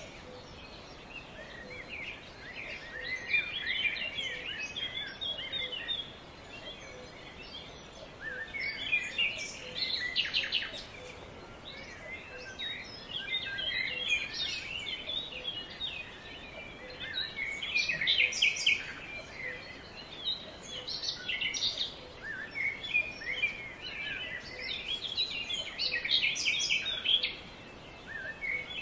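Small birds chirping and chattering in quick bouts of a few seconds each, with short lulls between, over a steady background hiss.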